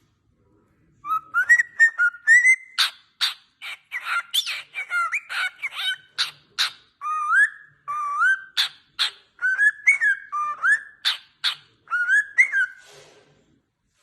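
A bird singing a varied run of whistled notes that glide up and down, broken by sharp clicking chips, for about twelve seconds.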